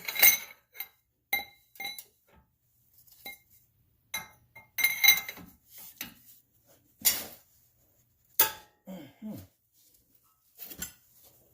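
Metal hand tools clinking and clanking against metal car parts during a front wheel bearing job: a series of sharp separate clinks, each with a short ring, coming in clusters.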